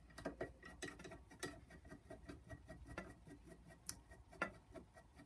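Faint, irregular small metal clicks and ticks as the scroll saw's hold-down foot is screwed onto its post by hand.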